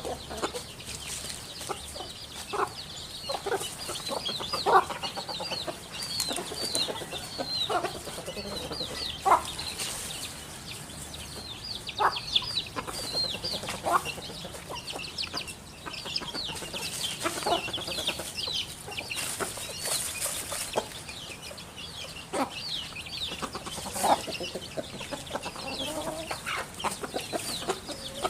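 Backyard birds: short, lower clucking calls every second or two, heard over a continuous chatter of high chirps.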